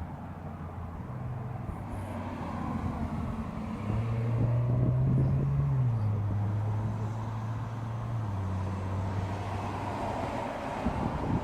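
Audi S5 Sportback's exhaust on a car driving by. The low engine note grows louder about four seconds in, then drops in pitch twice in clear steps, about two seconds apart.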